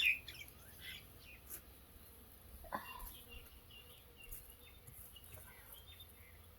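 Faint birds chirping in the background, scattered short calls, with a single soft knock about three seconds in.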